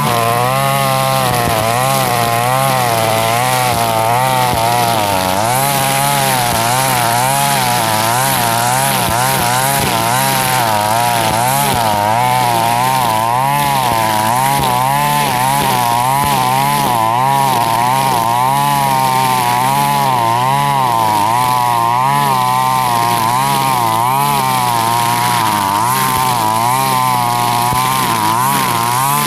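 Husqvarna 542RBS two-stroke backpack brush cutter running at high speed with a nylon trimmer line, its engine pitch rising and falling about once a second as the line cuts through grass.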